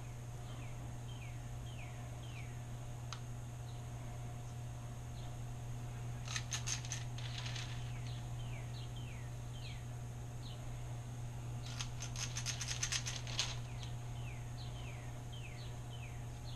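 Birds chirping in short runs of quick falling notes, with two bursts of rapid clicking about six and twelve seconds in from a spring-lever dough scoop being worked to drop cookie dough. A steady low hum runs underneath.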